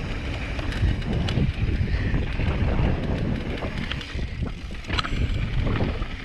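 Wind buffeting the microphone over the rumble and rattle of a mountain bike riding down a bumpy dirt trail, with a few sharp knocks from the bike hitting bumps.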